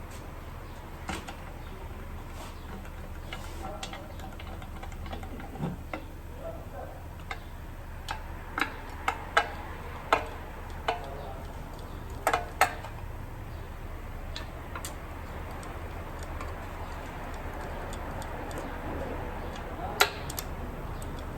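Scattered sharp clicks and metal taps of hand tools and engine parts being handled during engine reassembly, irregularly spaced and busiest about halfway through, over a steady low hum.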